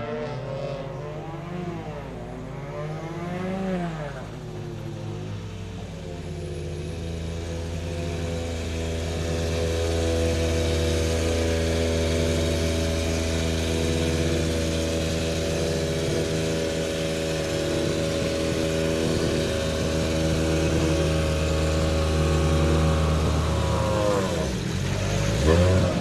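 Toyota GR Yaris Rally1 car's turbocharged 1.6-litre four-cylinder engine being warmed up. It is blipped up and down a few times at first, then held at a steady raised idle, with another quick rev near the end.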